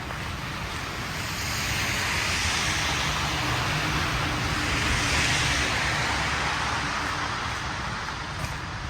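A vehicle passing on a snowy city street, its tyre hiss and engine rumble swelling, peaking about five seconds in, then fading away.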